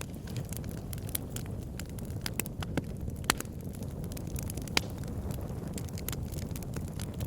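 Fire burning in a fireplace, crackling with frequent sharp pops over a steady low rumble; a few louder pops come around three to five seconds in.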